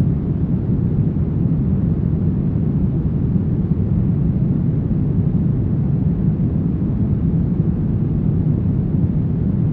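Synthetic brown noise: a steady, deep rushing hiss with most of its weight in the bass and little treble, unchanging throughout.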